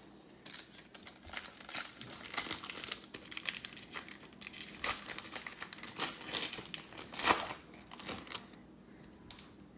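Plastic foil wrapper of a trading-card pack crinkling and tearing as it is ripped open and handled, a dense run of quick crackles that dies away near the end.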